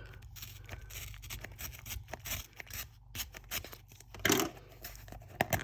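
A can of pouches being opened by hand, with its seal torn off: scratching, crinkling and tearing of the wrapper. There is a louder rip about four seconds in and a few sharp clicks near the end.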